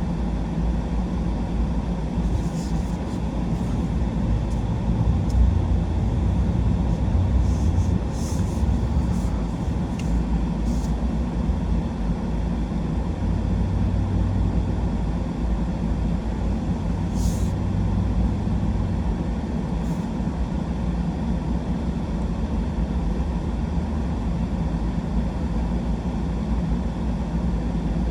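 Truck driving, its engine and road noise a steady low rumble, with a few faint short clicks or rattles in the first third and once just past the middle.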